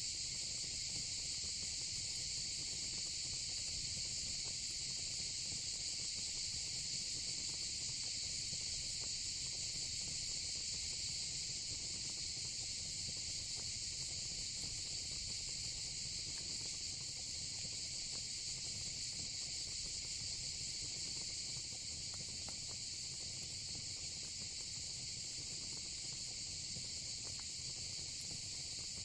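Steady, high-pitched chorus of crickets, unbroken throughout, over the faint low rumble of a fire pit with a few soft crackles.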